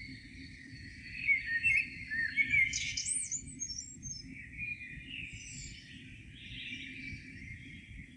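Several birds singing and chirping in a morning chorus, with a louder run of quick warbling notes and whistled glides from about one to three and a half seconds in. A steady low rumble lies underneath.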